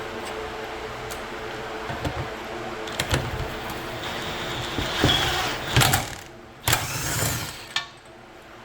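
Metal clicks and knocks of hand tools working a nut on rusty brake-part threads, over a steady machine hum.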